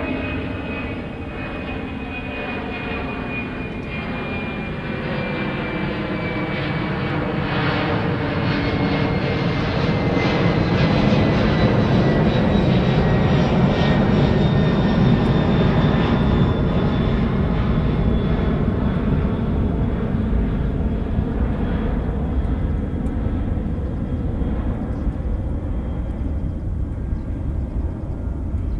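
Harley-Davidson XL1200X Forty-Eight's air-cooled V-twin running under way through a Rinehart Racing 3-inch slip-on exhaust with the Super Quiet baffle, mixed with wind rush. It builds to its loudest around the middle and eases toward the end.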